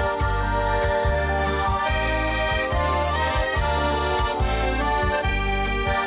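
Accordion playing the instrumental introduction of a Russian folk-style song: a melody over a steady, rhythmic bass-and-chord accompaniment.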